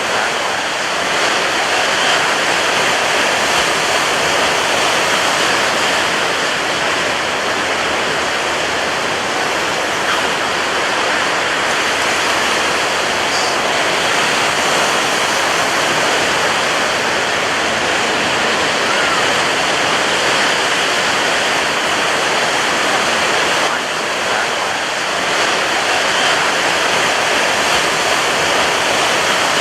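Ocean surf breaking on a beach, a steady loud wash of rushing water with only slight rises and falls in level.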